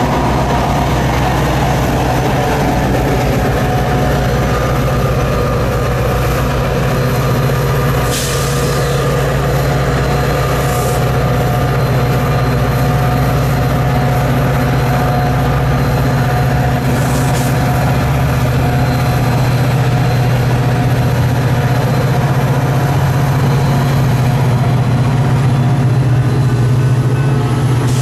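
A diesel train passing close by, with a loud, steady low drone from the locomotive engines and a few brief high clicks from the wheels on the rails.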